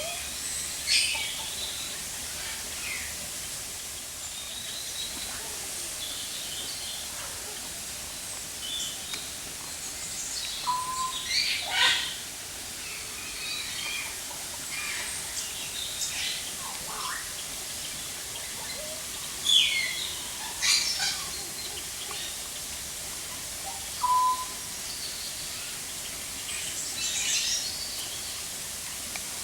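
Several birds calling: scattered short chirps and sharp calls that sweep down in pitch, with a few brief whistles, over a steady background hiss.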